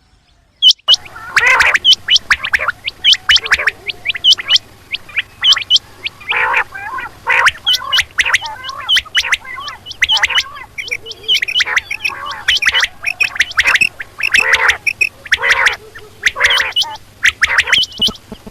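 Rain quail calling rapidly: many short, sharp whistled notes repeated over and over, mixed with harsher chattering calls. A faint steady low hum lies under them. The calls begin about a second in.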